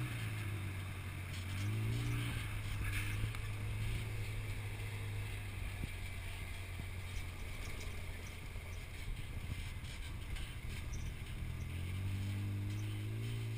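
Polaris RZR 4 side-by-side's engine running as it drives along a dirt trail, with a steady hum and the noise of the ride over it. The engine revs up about two seconds in and again near the end.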